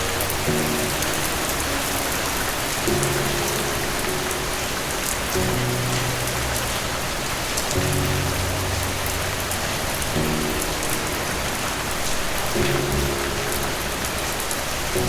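Steady rain falling, a dense even hiss with scattered drop ticks, over soft low music notes that change about every two and a half seconds.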